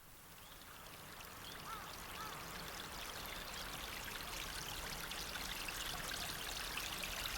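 Stream water running in an even hiss, fading in and growing slowly louder, with two faint short bird chirps about two seconds in.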